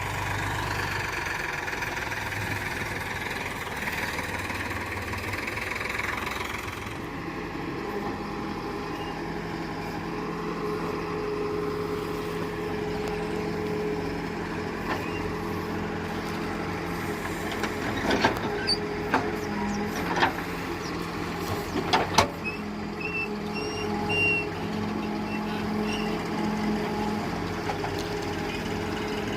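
Tractor diesel engine running steadily; its note changes about seven seconds in. Several sharp knocks come between about 18 and 22 seconds in.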